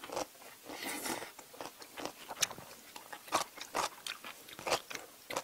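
Crunchy cubes of radish kimchi (kkakdugi) bitten and chewed close to the microphone: irregular crisp crunches, a few each second.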